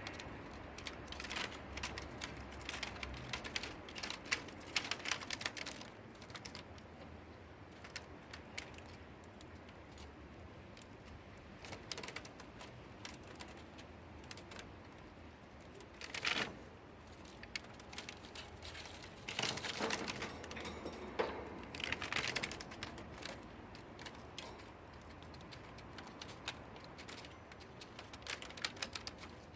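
Budgies pecking and tapping with their beaks, making rapid, irregular clicks in clusters, with a few louder bursts about halfway through and again a little later.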